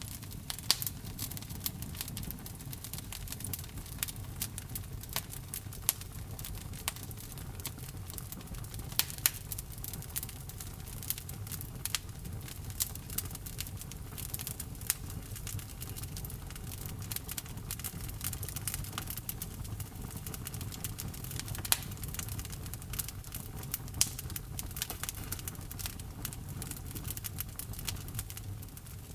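Wood fire burning in a fireplace: the logs crackle with many irregular sharp pops, a few louder than the rest, over the low steady rumble of the flames.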